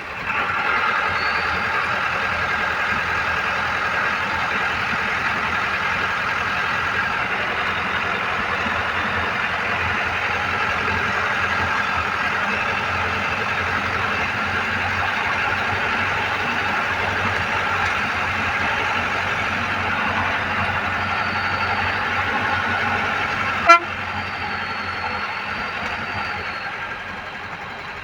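A vehicle running steadily on the move, as a continuous noise. A sharp click comes near the end, after which the sound is quieter.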